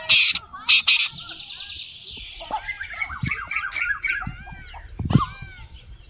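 Birds calling: two loud, harsh squawks in the first second, then many short, overlapping chirps from several birds.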